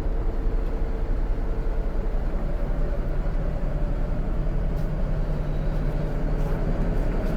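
Scania K410 bus on the move, heard from inside the cabin: a steady low engine and road rumble, with an engine hum growing clearer about halfway through.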